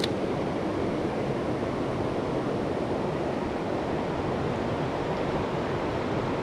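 Creek water rushing over rocks, a steady even rush.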